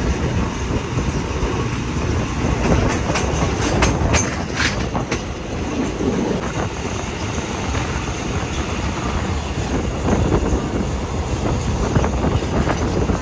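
Train running on rails: a steady rumble of wheels on track, with a cluster of sharp clicks and knocks about three to five seconds in.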